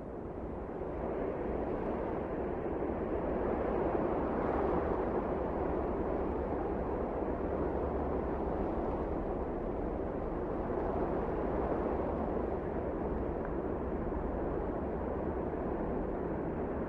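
Wind blowing in a steady rushing gust, swelling over the first few seconds and then holding steady.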